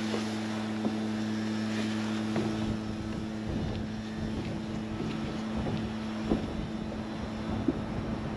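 Engine of a snow-clearing machine running at a steady speed, giving an even, unchanging hum, with a few faint knocks along the way.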